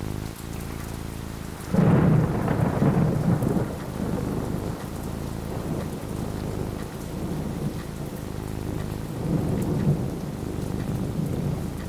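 Steady rain falling, with a sudden loud thunderclap about two seconds in that rumbles for a couple of seconds, and a second, softer roll of thunder near the end.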